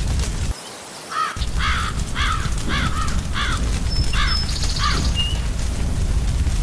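A crow cawing about eight times in quick succession, over the low steady rumble of a crackling fire that cuts out for about a second near the start.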